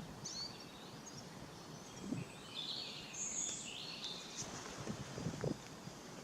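Birds chirping, a short cluster of high notes about three seconds in, over a low outdoor rustle with a few soft thumps.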